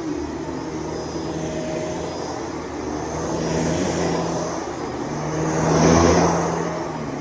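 Vacuum cleaner running steadily with a motor hum and a high whine, swelling louder and softer as it is pushed back and forth, loudest about six seconds in.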